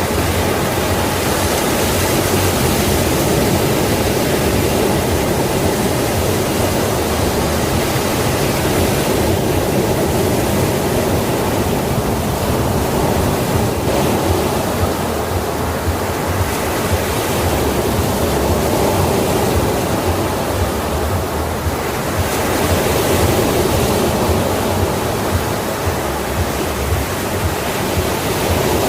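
Ocean waves washing in continuously, a dense rushing noise that swells and eases slowly over several seconds.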